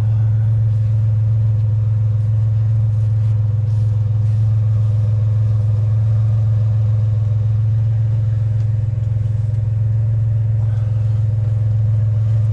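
A truck engine idling: a steady, unchanging low drone, with a few faint clicks and knocks.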